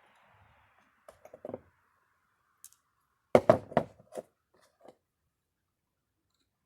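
Knocking and clicking of small metal parts of an old Delco-Remy distributor being handled and fitted back together. There are a few light taps about a second in, then a louder cluster of quick knocks around three and a half seconds in.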